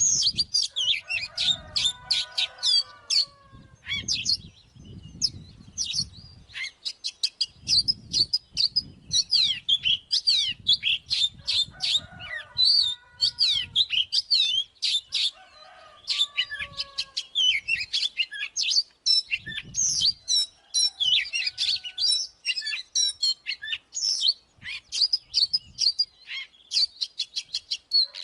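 Oriental magpie-robin singing a long, rapid run of varied whistles, chirps and trills, with short lower whistled phrases mixed in. A faint low rumble comes and goes underneath.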